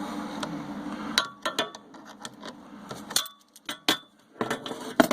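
Metal tools and hardware clinking and clattering in a string of sharp clinks, some ringing briefly. A low steady hum stops about a second in.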